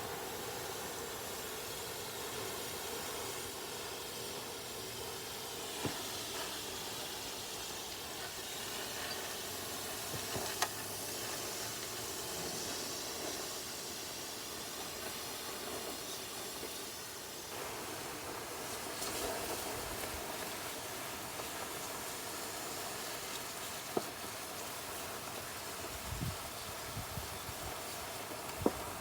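Steady hiss of steam from a campfire being doused and put out, with a few sharp pops from the embers.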